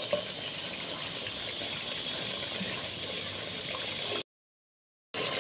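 Meat and tomato masala sizzling and bubbling steadily in a pressure cooker pot as it is fried down. The sound cuts out completely for about a second near the end.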